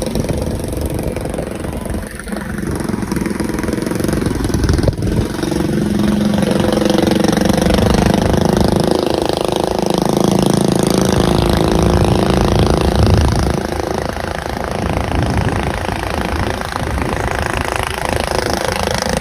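Dirt bike engine running steadily, its pitch rising and falling a little through the middle.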